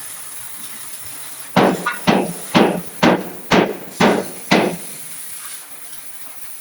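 Hammer striking steel bodywork seven times, about two blows a second, each blow ringing briefly.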